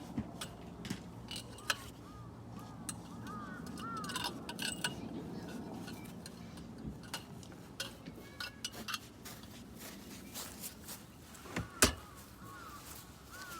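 Scattered light clinks and knocks of small hard objects being handled, with a few short high chirping calls about a second to five seconds in and again near the end.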